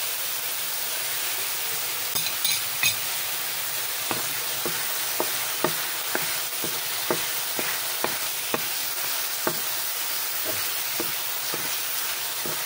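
Chicken pieces sizzling as they sauté in a frying pan, with a wooden spatula stirring them and knocking against the pan about twice a second from about four seconds in.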